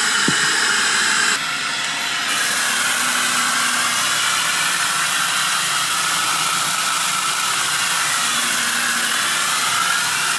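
Upright vacuum cleaner running steadily as it picks up rock salt and dirt, with a brief drop in level about a second and a half in.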